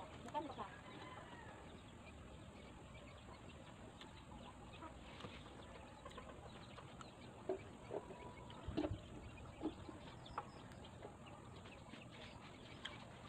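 Quiet eating sounds of santol fruit being chewed, with a few short sharp clicks about two thirds of the way in. Faint chicken clucking in the background.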